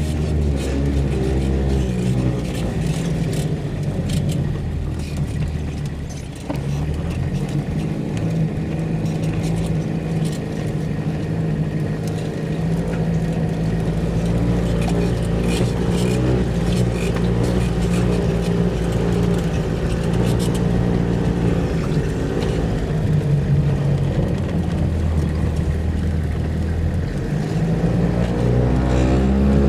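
Engine of an off-road vehicle droning under load, heard from inside the cab, with scattered knocks and rattles from the rough track. The revs drop about six seconds in and climb again near the end.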